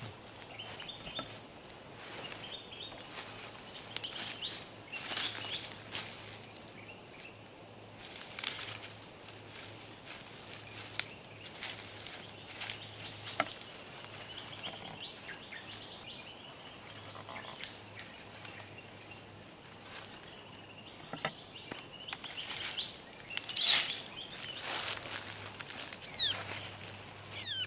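Forest ambience with a steady high insect drone and irregular rustling and crackling. Near the end come a few loud, sharp bird chirps.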